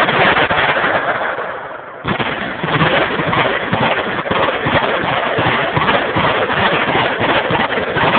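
Sustained, dense automatic gunfire from several machine guns firing at once, the shots running together into a continuous rattle. It eases briefly about two seconds in, then picks up again at full intensity.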